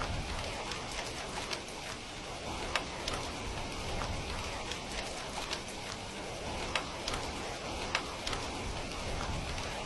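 Steady rain falling, with scattered sharp pops and crackles of a wood fire.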